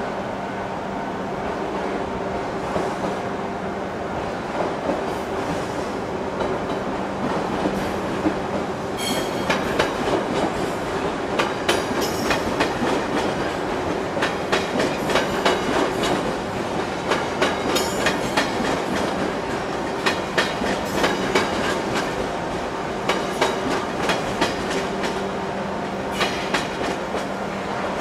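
E2 series Shinkansen train approaching slowly into the station over a steady hum, with a long run of irregular sharp clicks and ticks from the track starting about nine seconds in.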